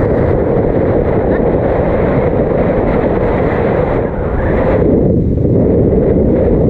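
Wind buffeting the microphone of a camera on a moving e-bike: a loud, steady rush of noise heaviest in the low end.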